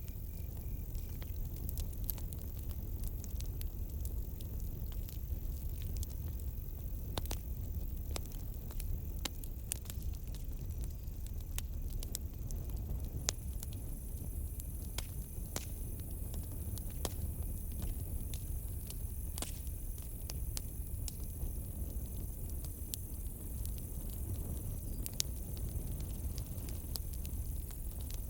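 Campfire burning, with scattered sharp crackles and pops over a low steady rumble. A faint, steady, high cricket trill sits in the background.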